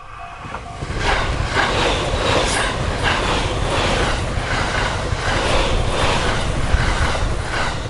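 Level-crossing bell ringing in short repeated pulses, cut off under a loud limited express electric train passing close by at speed from about a second in. Its wheels clack over the rail joints about twice a second.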